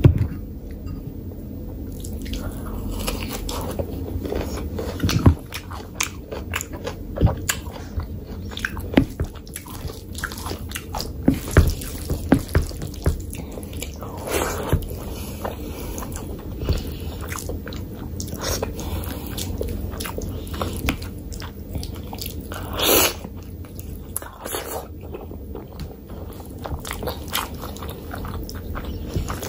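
Close-miked chewing and wet mouth sounds of eating rice and mutton curry by hand: a steady run of short smacks and clicks, with one louder, longer smack near the end, and the squish of fingers mixing rice in curry.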